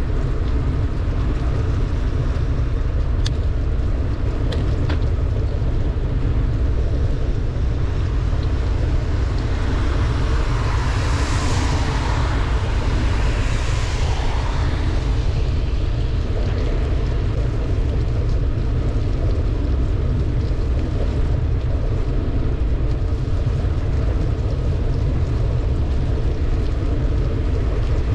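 Wind buffeting the microphone of a bicycle riding downhill in heavy rain, with a steady wet hiss of tyres and rain on the road. About ten seconds in, a louder wet hiss swells and fades over a few seconds.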